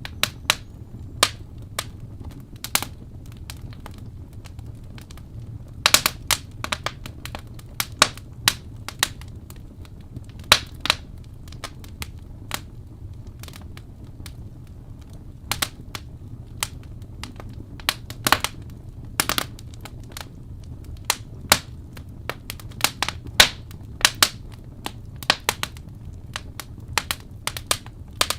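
Wood fire burning in a fireplace, with irregular sharp crackles and pops, some in quick clusters, over a steady low rumble of the flames.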